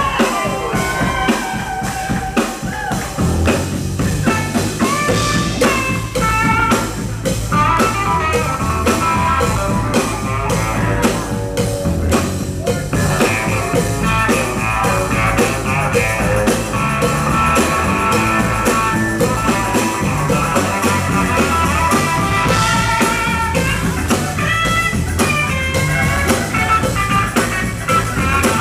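Live soul-rock band playing an instrumental passage, with a melodic lead line over drums; the low end fills in about three seconds in.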